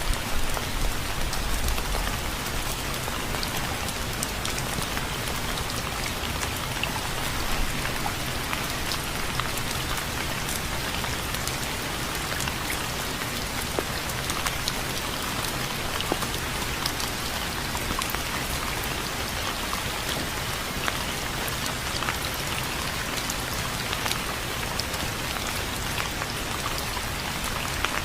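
Steady rain falling on a surface, a dense even hiss with many separate drops pattering and ticking through it.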